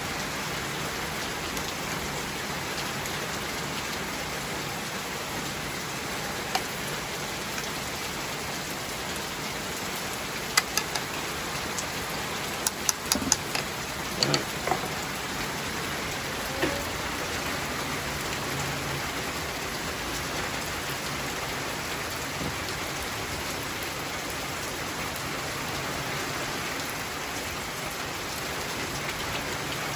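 Heavy rain coming down steadily, with a few sharp clicks and taps about halfway through.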